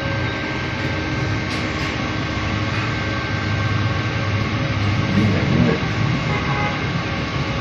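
Steady mechanical drone of a running engine or machine, a low rumble with a few fixed tones over it, unchanging throughout.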